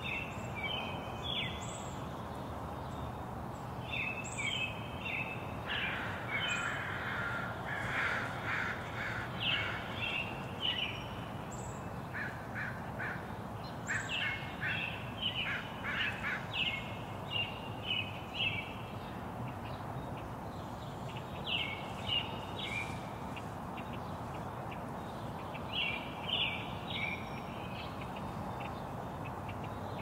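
Wild birds calling in short repeated bursts of chirps and harsher calls, coming and going in clusters, over a steady background hiss.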